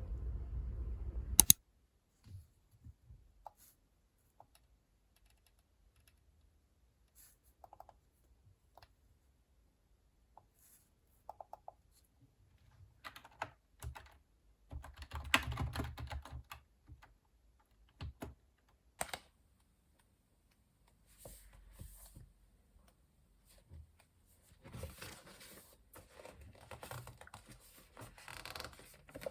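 Typing on a computer keyboard in short runs of clicks with pauses between them. It opens with a steady low hum that cuts off with a sharp click about a second and a half in, and near the end gives way to continuous rubbing or scratching.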